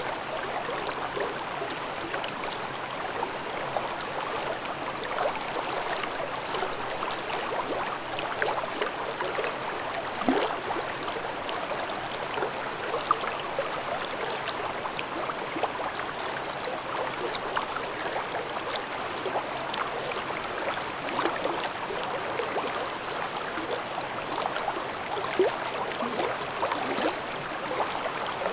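A shallow mountain stream babbling and gurgling steadily over rocks, with small splashes and trickles throughout.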